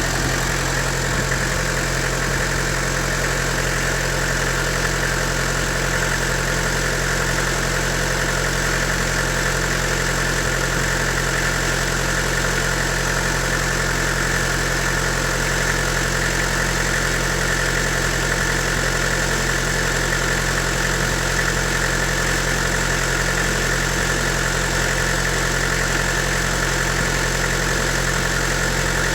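Toyota 3L 2.8-litre four-cylinder diesel engine idling steadily and evenly. It is running smooth at 180,000 km.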